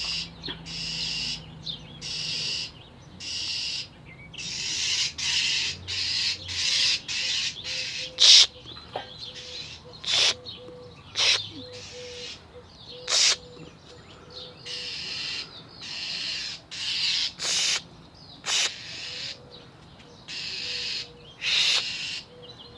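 A bird giving harsh, rasping scolding calls over and over, about once a second, with a few sharper, louder notes among them: alarm calls directed at a cat.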